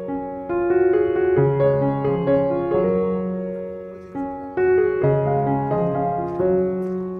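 Background piano music: a gentle, slow piano piece played in sustained chords.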